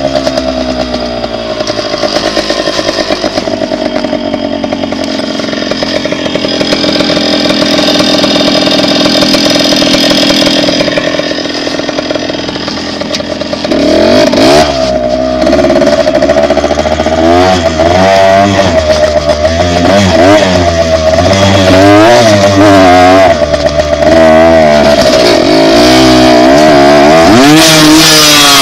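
Dirt bike engine running, fairly steady at first. About halfway through it gets louder, and the revs climb and drop again and again.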